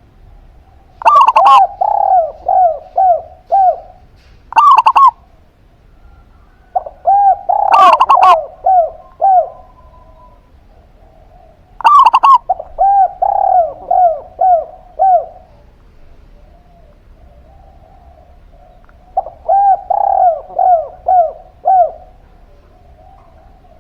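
Zebra dove (perkutut) and spotted dove (derkuku) cooing. Several phrases of rhythmic coos each open with a loud, sharp note followed by five or six quick arched cooing notes, with pauses of a few seconds between phrases.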